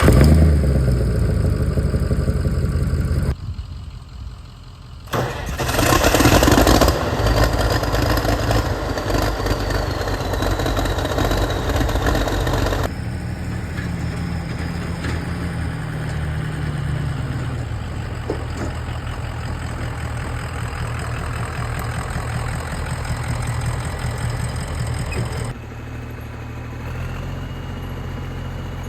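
Tractor engines starting and running in a series of short clips that cut abruptly from one to the next. One stretch a few seconds in is louder and revs up.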